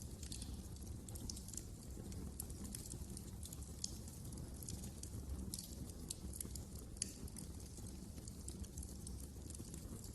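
Wood fire crackling: irregular sharp pops and snaps over a low steady rumble, with one louder pop about seven seconds in.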